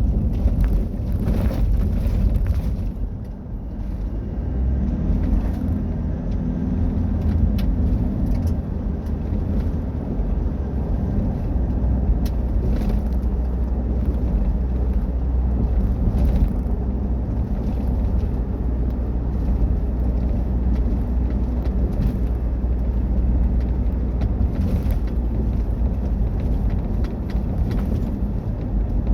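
Rally-prepared Mitsubishi Triton pickup driven off-road: a steady low engine and road rumble, with the engine note shifting several seconds in. Sharp knocks and clicks come now and then.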